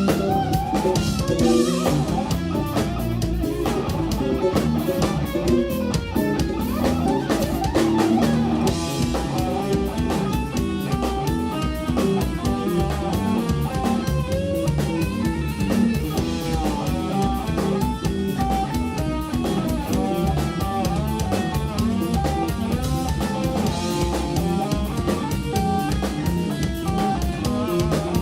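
Jazz-rock fusion trio playing live: busy electric guitar lines over bass guitar and a drum kit, at a steady, full level.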